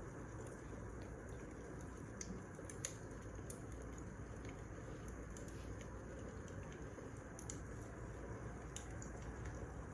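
Wood fire crackling: a steady low rush of burning logs with scattered sharp pops, the loudest a little under three seconds in.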